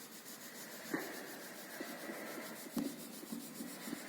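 Colour being scribbled onto paper to shade grass: a faint, steady scratchy rubbing with a couple of light knocks.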